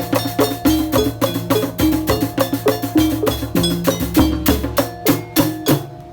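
Obrog street ensemble playing a quick, even beat of struck metallic percussion and drum, about four or five strokes a second, over low held tones. It thins out and drops away near the end.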